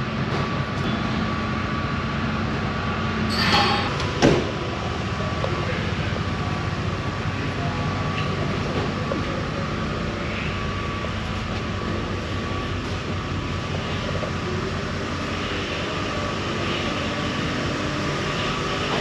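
Steady rumble and hum of a ferry's machinery, with a brief rushing noise and then a sharp clank about four seconds in.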